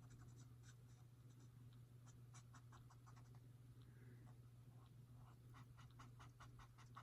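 Faint scratching of a coloring pen on paper in short quick strokes, coloring the birds red. The strokes grow more regular, about three or four a second, near the end.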